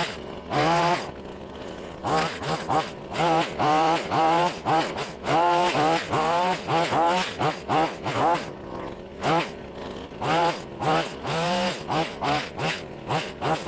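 Gas hedge trimmer's small engine revving up in short, repeated bursts, about two a second, dropping back to idle between them as the blades cut brush.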